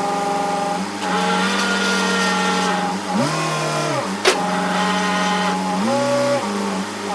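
An electric power tool's motor running, its pitch sagging twice as it takes load in the wood and then picking back up, with one sharp click partway through.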